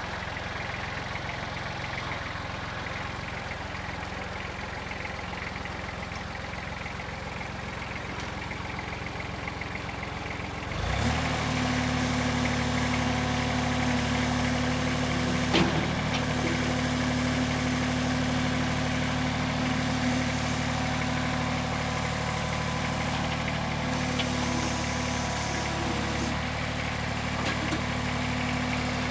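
Kubota B21 backhoe's diesel engine running steadily; about a third of the way in it steps up to a higher, louder steady speed and holds there. A single sharp click comes a few seconds after the change.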